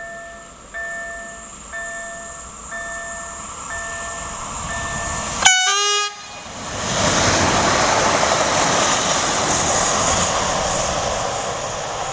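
An electronic level-crossing warning signal beeps about once a second. About five and a half seconds in comes a short, loud blast from an electric multiple unit's horn, the Rp1 'attention' warning signal. The regional electric train then passes, its running noise swelling and then easing off.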